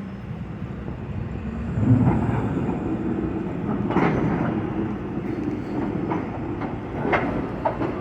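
Freight train moving on the tracks: a steady rumble that swells about two seconds in, with a few sharp clanks.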